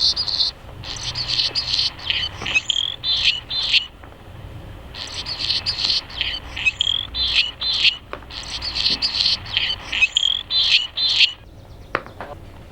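Hummingbird calls: rapid, high, chittering chips in two long runs, with a pause of about a second between them.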